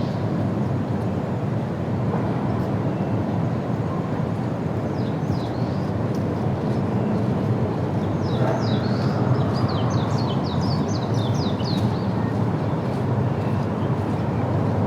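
A small bird sings quick, high, downward-sliding chirps, briefly about five seconds in and then in a longer rapid run from about eight to twelve seconds, over a steady low rumble.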